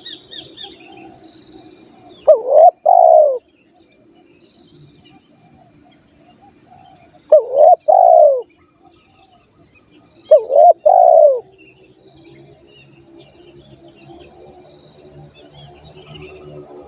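Spotted dove cooing: three phrases a few seconds apart, each a short note followed by two longer coos that rise and fall, over a steady high drone of insects.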